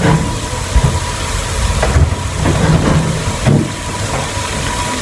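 Chicken and white onions frying in a pot, a steady sizzle over a low rumble, with a few light knocks.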